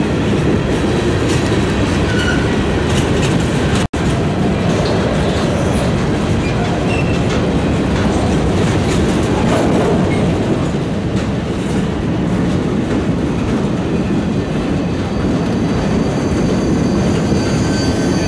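Freight train's cars (covered hoppers, then boxcars) rolling past close by: a loud, steady rumble with wheels clicking over the rails. The sound drops out for an instant about four seconds in.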